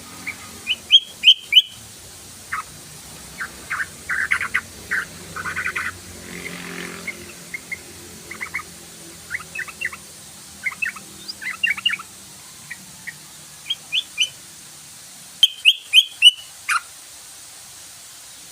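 Yellow-vented bulbul song: short, bubbly chattering phrases repeated throughout. The loudest clusters come about a second in and again near the end.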